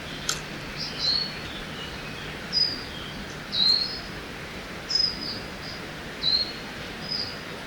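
Birds chirping in a forest, short high notes repeating about once a second, over a steady hiss of background noise.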